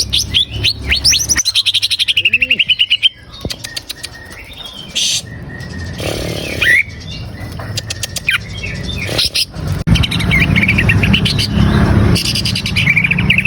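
Cucak ijo (green leafbird) singing a fast, varied song of chirps and whistles, with quick runs of rapidly repeated notes near the start and again near the end, and scattered calls in between.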